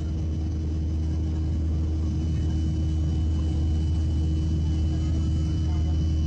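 Steady airliner cabin noise in a climb: a constant low rumble of engines and airflow with a steady hum and a faint high whine.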